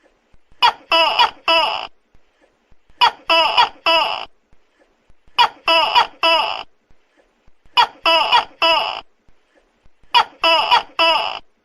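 Tokay gecko calling loudly: three-syllable 'to-kek' calls in groups of three, repeating at an even beat about every two and a half seconds, five groups in all.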